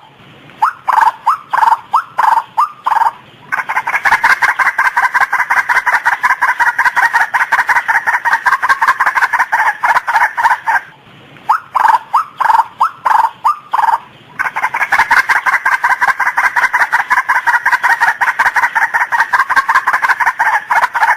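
A female white-breasted waterhen calling. Spaced repeated notes run into a long, fast, unbroken series of the same note lasting several seconds. After a short pause the pattern repeats: spaced notes, then another long rapid run.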